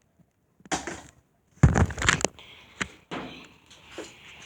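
A few short knocks and thumps on a hard surface, the loudest a cluster about a second and a half in.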